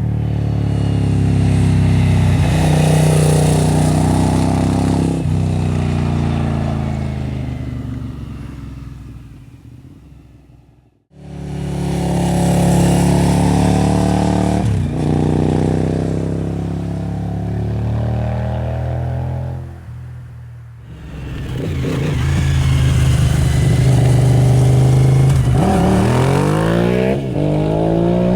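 Suzuki SV1000S 996 cc V-twin with Two Brothers slip-on exhausts, ridden past in several passes. It accelerates and fades into the distance, comes back in loud after a cut, dips, then swells again, with its pitch sweeping as it passes close near the end.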